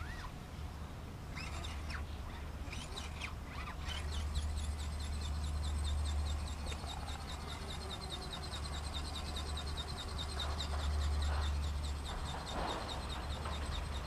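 Birds chirping: a few quick, sweeping calls in the first few seconds, then a fast, steady run of high repeated notes, over a low steady rumble.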